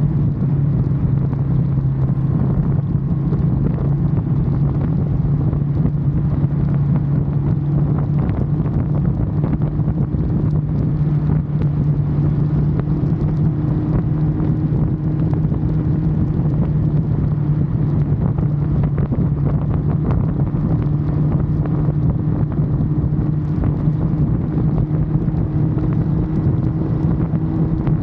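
Ducati Monster motorcycle's V-twin engine running at steady revs while riding, with wind noise over the microphone.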